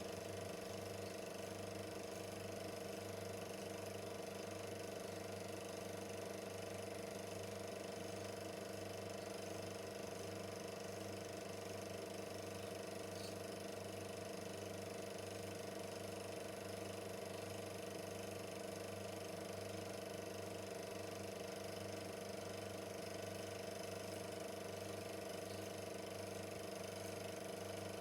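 Super 8 film projector running steadily: a constant motor hum with an even mechanical whir from the film-advance mechanism.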